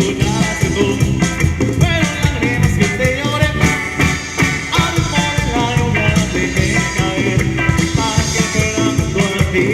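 A band playing an upbeat Latin dance song with a steady beat, guitar and other instruments, with some singing.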